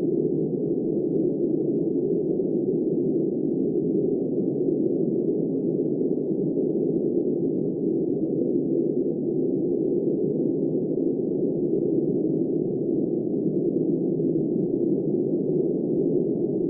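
Steady, muffled roar of blizzard wind, low-pitched, with no gusts or rises in strength.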